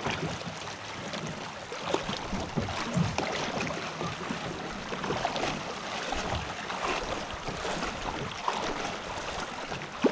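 Kayak moving through shallow creek water: splashing and sloshing, with many small irregular knocks and splashes.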